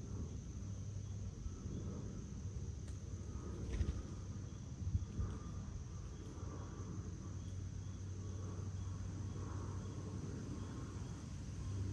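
Backyard outdoor ambience: a steady high insect drone over a constant low rumble, with faint scattered chirps and two soft knocks about four and five seconds in.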